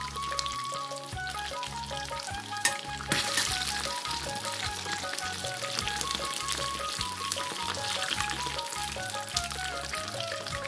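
Batter-coated chicken deep-frying in hot oil in a miniature iron kadai, sizzling steadily. The sizzle grows louder about three seconds in, just after a brief click, as a slotted spoon is worked through the pieces.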